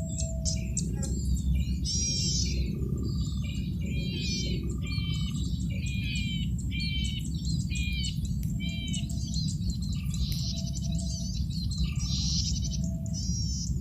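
Male golden-headed cisticola singing: bursts of quick, high, twittering notes repeated every second or so over a steady low hum.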